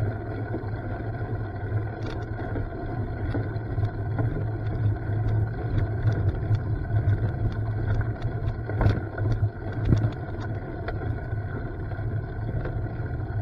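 A steady low, engine-like drone with scattered clicks and rattles. The clicks are sharpest about 9 and 10 seconds in.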